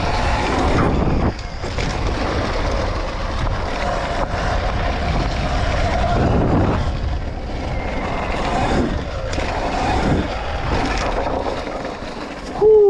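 Sur-Ron electric dirt bike being ridden around a dirt track: a steady rush of wind and riding noise on the action camera's microphone, with a faint motor whine that rises and falls in pitch. Right at the end comes a short, loud, falling tone, and the sound then cuts off.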